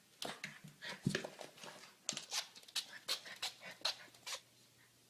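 A dog panting in quick, short breaths, about three a second, stopping near the end.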